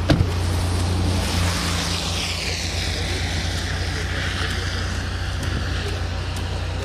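Vehicle engine running with a steady low hum, heard from inside the car. A sharp knock comes just after the start, then a rushing whoosh of noise slides down in pitch over a few seconds.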